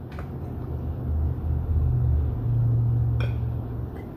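A low, steady rumble that swells and then fades over a few seconds, with a single short click about three seconds in.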